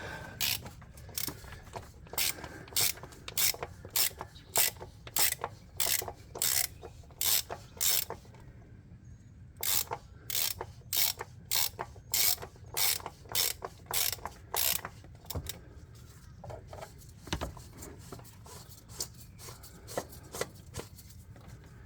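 Socket ratchet clicking steadily, about three clicks a second, as a 36 mm socket backs off the oil filter cap on a Ford 6.0 Powerstroke diesel. The clicking pauses briefly about halfway through, resumes, then thins out to scattered clicks as the cap comes loose.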